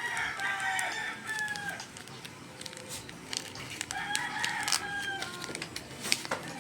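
A rooster crowing, two long crows about four seconds apart, with scattered sharp clicks between them.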